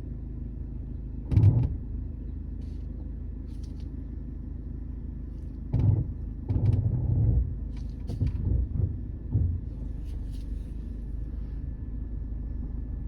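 A steady low rumble with a sharp thump about a second and a half in, then a run of thumps and knocks in the middle.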